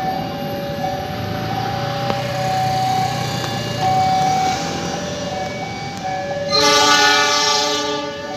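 Railway level-crossing warning signal sounding a steady alternating two-tone alarm over the rumble of a shunting diesel locomotive. Near the end the locomotive's horn sounds once, loud, for about a second and a half.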